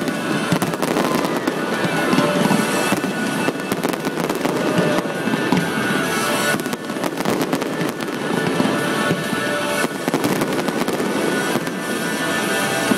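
Fireworks display: a dense, unbroken run of bangs and crackling from bursting aerial shells, with music playing underneath.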